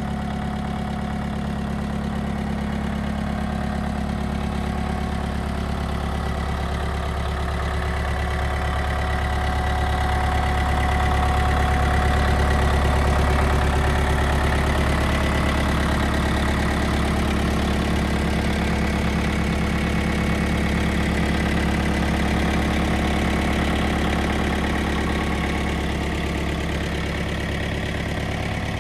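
Mitsubishi MT27 compact tractor's four-cylinder diesel engine idling steadily, getting a little louder around the middle and easing back near the end.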